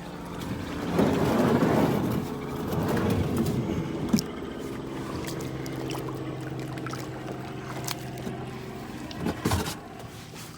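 Kayak being launched: hull scraping and water rushing as it is pushed off, over a steady low hum, with a sharp knock near the end.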